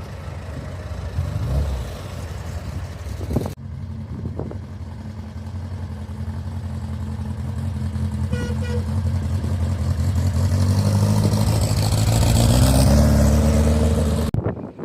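A car engine drawing closer, its low note growing steadily louder and rising slightly in pitch over about ten seconds, then cutting off abruptly near the end.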